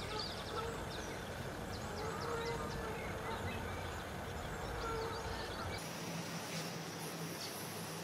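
Small birds chirping in quick bursts of short high notes over a steady low background rumble. About six seconds in the background changes abruptly and the chirps become sparser.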